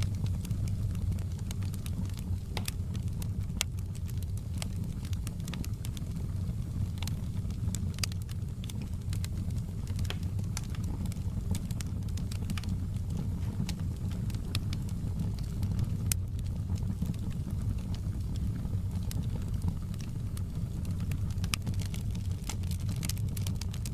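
Wood fire burning in a stone fireplace: scattered sharp crackles and pops over a steady low rumble.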